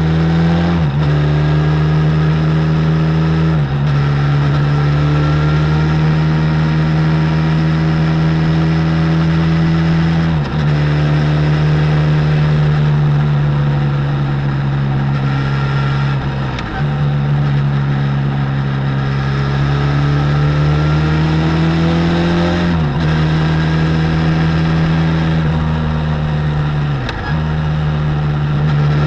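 Benelli Leoncino 500 parallel-twin engine running through its stock exhaust while riding. The note climbs slowly, then drops sharply and briefly about six times, as at gear changes or throttle lifts.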